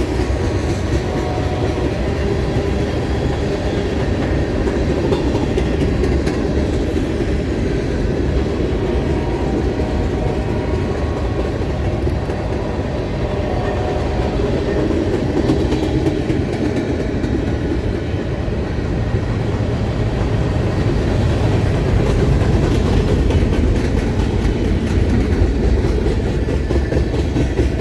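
A freight train's cars rolling past, a steady noise of steel wheels running on the rails.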